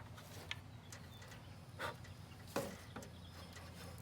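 Quiet background with a steady low hum and a few faint clicks and knocks, the loudest about two and a half seconds in. The saw is not running.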